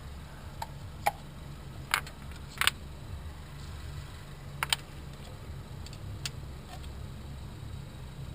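Scattered light clicks and taps of hand tools and small metal parts being handled during hand work on an engine. They come at irregular intervals, about six in all, over a steady low hum.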